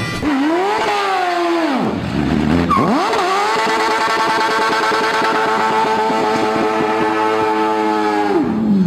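Tuned Smart city car doing a burnout. Its engine is revved up and down twice, then held steady at high revs for about five seconds while the rear wheels spin, and the revs drop just before the end.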